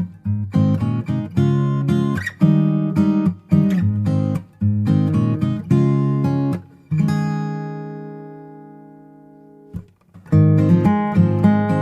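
Background music: strummed acoustic guitar chords, with one chord left ringing and dying away about two-thirds of the way through before the strumming starts again.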